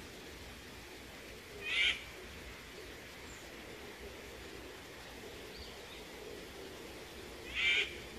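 A wild bird giving two short, sharp calls about six seconds apart, over a faint steady forest background.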